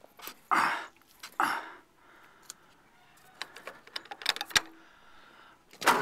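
A dog barks twice, about a second apart, then a string of small sharp metallic clicks and clatter follows.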